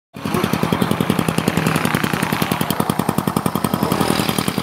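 Motorstar Easyride 150N's single-cylinder four-stroke engine idling, heard close at the exhaust header as loud, even puffs about a dozen a second. It cuts in abruptly just after the start. The header's mounting nuts have vibrated off and one bolt has snapped, so exhaust leaks at the port.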